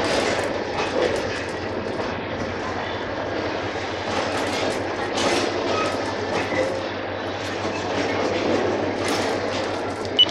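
Loaded oil tank wagons of a Bangladesh Railway freight train rolling slowly past, wheels running over the rails with irregular clicks and clanks. A short electronic beep sounds at the very end.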